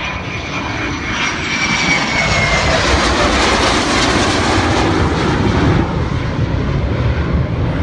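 Military jet engine noise building over the first few seconds to a loud, steady rush, with a faint high whine that dips in pitch.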